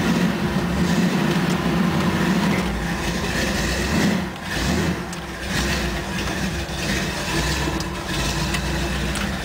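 Ford 428 V8 engine of a 1971 Ford F-100 pickup running steadily, dipping briefly in loudness about four seconds in.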